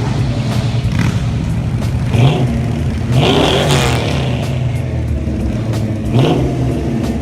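Vehicle engines running as they leave, with revs rising in pitch: a short one about two seconds in, the biggest between three and four seconds, and another about six seconds in.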